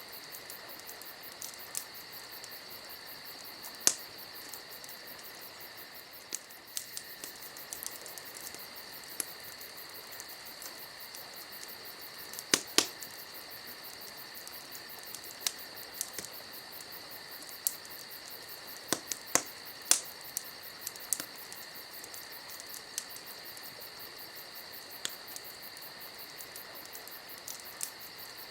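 Campfire crackling, with irregular sharp pops and snaps, several loud ones in quick pairs, over a steady high chirring of crickets.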